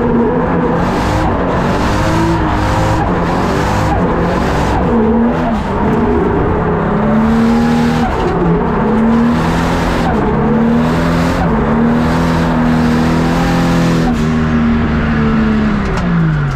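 BMW E36 drift car's engine heard from inside the cabin, its revs swinging up and down, then held high for several seconds, and dropping away near the end.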